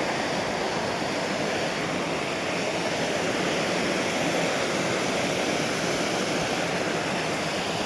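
Waterfall's water rushing over rocks, heard close by as a steady, even rush that swells slightly in the middle.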